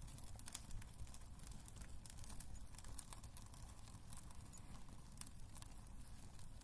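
Wood fire burning in a fireplace: faint low rumble of the flames with irregular sharp crackles and pops of the burning wood.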